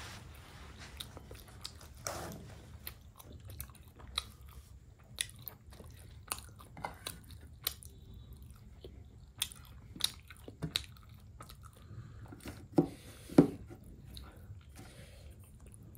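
Close-miked chewing of steamed chicken momos: soft wet mouth clicks and smacks scattered throughout, with two louder clicks close together about three-quarters of the way through.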